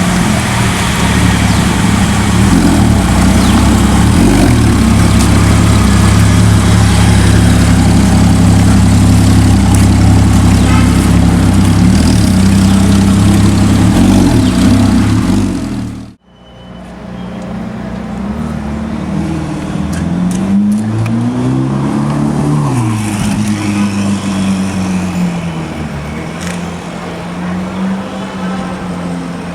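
Loud supercar engine running with a deep, steady exhaust note; after a sudden cut about 16 seconds in, an engine revs up and down a few times.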